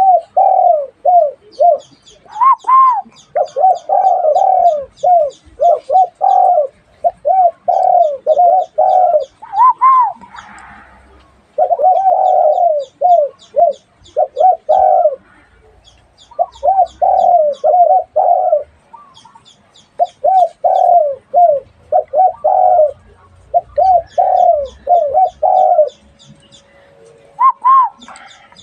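Dove cooing in quick runs of short, rising-and-falling notes, several per second, with brief pauses between runs and an occasional higher note.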